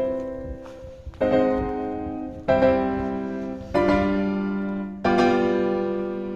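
Background piano music: slow sustained chords struck about every second and a half, each left to ring and fade.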